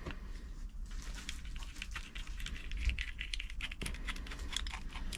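Scattered light clicks and taps of a 13 amp mains plug and its cable being handled on a workbench.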